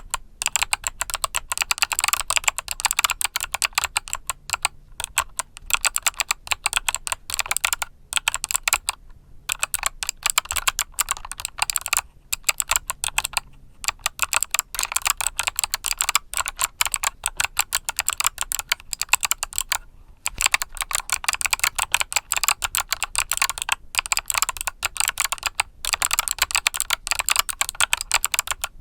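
Continuous fast typing on a mechanical keyboard with Kailh Box Summer switches: a dense stream of crisp key clicks, broken by a few short pauses.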